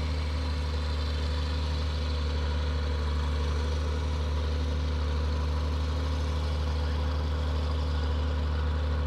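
Diesel engine of a large 1174 tractor running steadily at an even speed, a deep, unchanging engine note.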